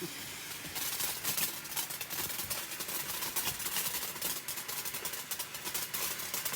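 A lit firework crackling, a dense fast run of small pops that starts about a second in and keeps going.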